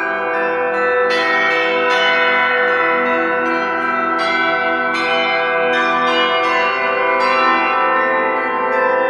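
Orthodox church bells rung together in a continuous peal. Fresh strikes come about once a second, and each rings on over the next.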